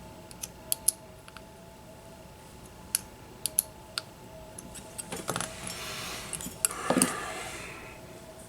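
Small hard parts and tools clicking and clinking as they are handled on a workbench: scattered single clicks at first, then a denser rattling clatter from about five to seven and a half seconds in.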